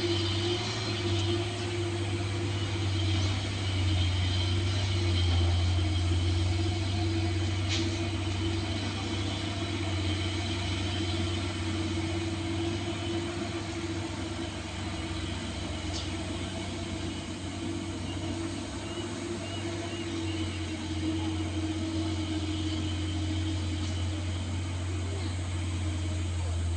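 Truck engine running steadily with a low, even hum and no change in revs.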